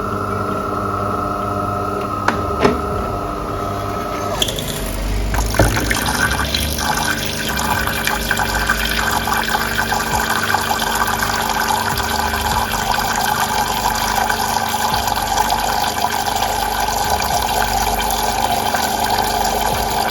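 De'Longhi Magnifica S espresso machine's pump running in a descaling cycle, a steady hum at first, then from about four seconds in water gushing and splashing steadily into a pan beneath the spout.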